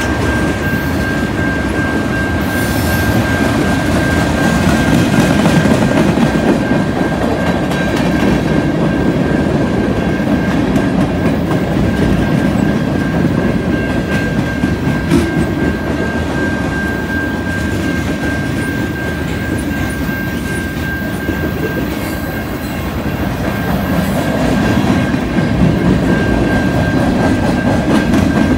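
Freight cars (tank cars, covered hoppers and an autorack) rolling past: a steady rumble of wheels with clickety-clack over the rail joints. A steady high-pitched ringing tone runs on throughout.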